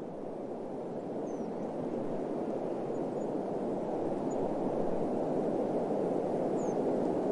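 Steady, dull rushing of desert wind, slowly swelling, with a couple of faint high chirps.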